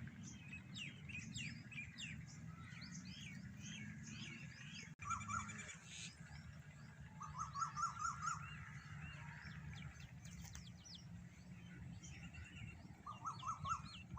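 Several birds chirping and calling, with many short rising and falling notes and a rapid repeated trill heard twice, about seven seconds in and again near the end, over a steady low background hum.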